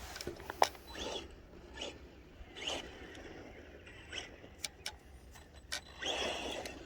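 Faint scraping and crunching of an RC short course truck's tyres spinning on a dirt track, with scattered small clicks and two brief hissy scrapes about three and six seconds in.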